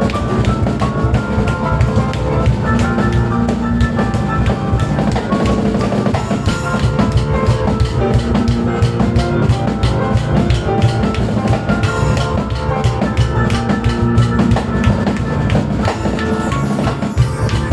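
Live instrumental music: acoustic piano with a drum kit and cajon, busy rhythmic drumming over sustained piano notes.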